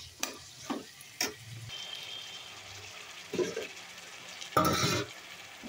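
Onion-tomato spice masala frying in oil in a kadai, with a steady sizzle. A spatula stirs and scrapes the pan a few times in the first second or so. A louder brief noise comes about four and a half seconds in.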